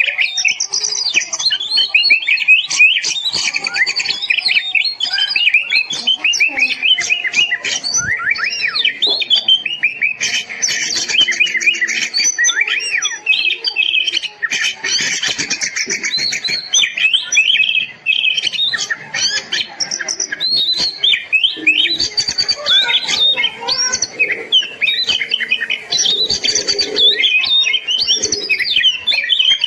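Oriental magpie-robin (kacer) singing nonstop: a fast, varied run of chirps, trills and whistled notes with no pauses.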